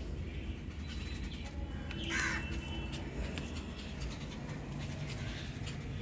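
A single bird call about two seconds in, lasting under half a second, over a steady low background noise.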